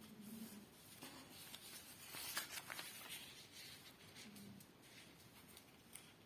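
Faint rustling and creasing of a sheet of paper being folded by hand, with light crinkles and taps that are loudest about two to three seconds in.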